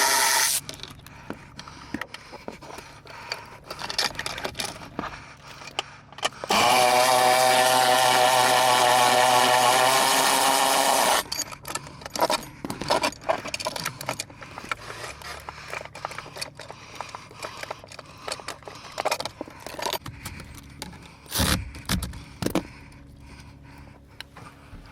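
A motor runs steadily and loudly twice: briefly at the start, then for about five seconds in the middle. Between and after the runs come clicks, scrapes and metal clatter of hand tools and parts.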